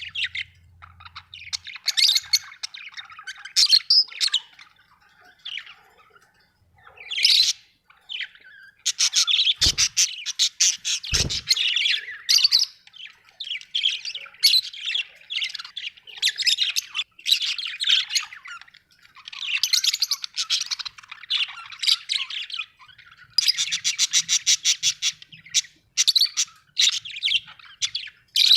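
Budgerigars chattering and squawking in quick high bursts, with fast rattling runs of calls, and two brief low thuds near the middle.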